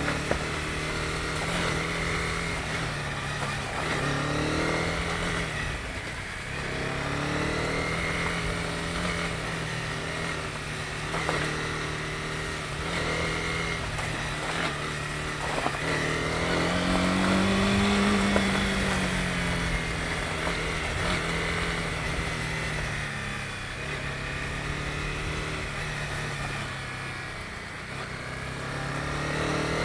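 Honda CB250R's single-cylinder four-stroke engine running under way, its pitch rising and falling with the throttle and climbing highest about two-thirds of the way through, over a steady haze of road and wind noise.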